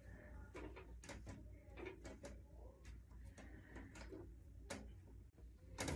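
Faint, irregular clicks and knocks of metal drum-stand hardware being handled and fitted back together, about a dozen small taps spread over a few seconds.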